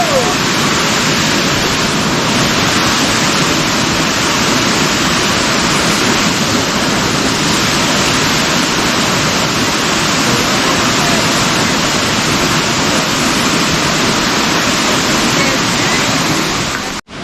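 Waterfall pouring steadily: a loud, even rush of falling water that cuts off abruptly near the end.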